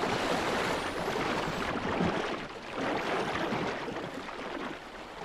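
Sea water rushing and churning: a steady wash of noise that swells and dips.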